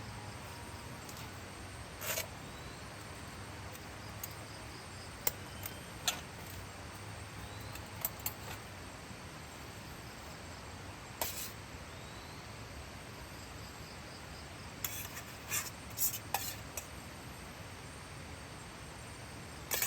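Steady outdoor background of insects chirping, broken by scattered short light clicks and clinks, with a small cluster of them near the end.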